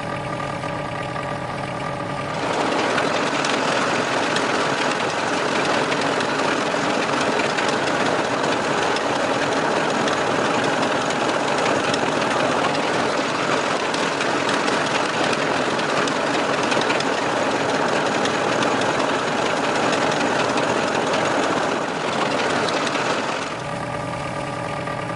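Small motor running steadily. It gets louder about two seconds in and drops back near the end.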